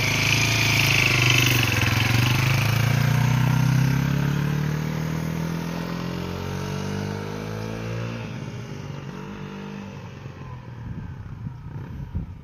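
Suzuki DR250's single-cylinder four-stroke engine pulling away and accelerating, its pitch rising steadily. It fades as the bike rides off into the distance and is barely heard near the end.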